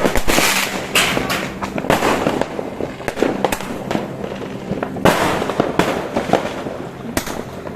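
Fireworks going off in a steady run of overlapping bangs and crackles, heaviest about five seconds in.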